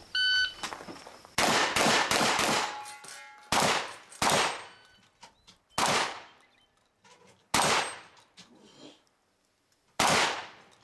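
A shot-timer beep starts the run. About seven shotgun blasts follow at uneven gaps over the next ten seconds, the last near the end, with steel target plates ringing after some of the hits.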